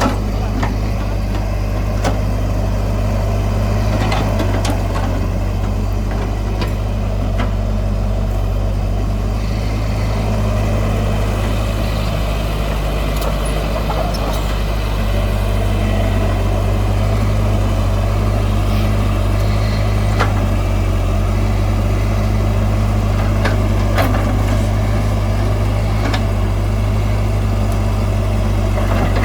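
Heavy diesel engine of earth-moving machinery running steadily, with a few sharp knocks scattered through.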